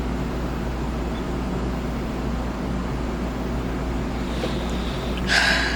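Steady low background hum, with a brief hissy rustle a little over five seconds in.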